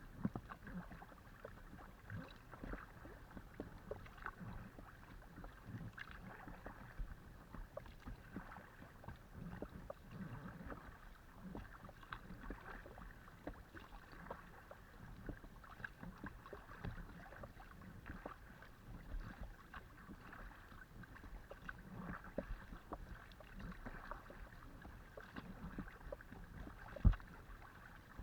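A kayak being paddled: water splashing and dripping from the paddle blades, with many small knocks and taps. One sharper knock comes near the end.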